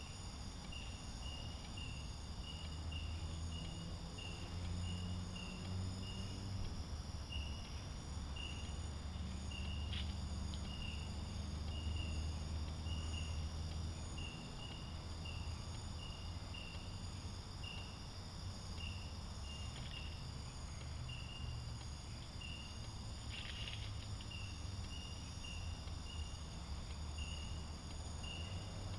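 Night insects, crickets among them, chirping steadily, with one short chirp repeating about twice a second over a continuous high-pitched trill, against a low steady hum.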